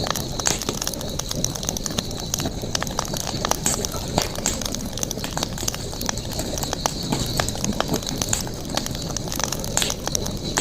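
Campfire crackling, with irregular sharp pops and snaps from the burning wood over a steady high background hiss.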